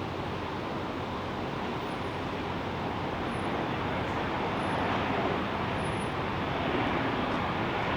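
Distant jet airliner engine noise, a steady rush that slowly grows louder.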